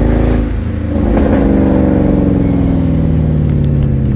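Mercedes C63 AMG's 6.2-litre V8 running under way. Its note dips briefly about half a second in, picks up again, then slowly falls in pitch.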